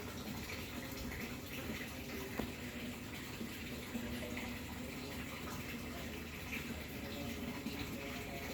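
Steady trickling water with scattered small splashes and ticks at the surface of a fish pond.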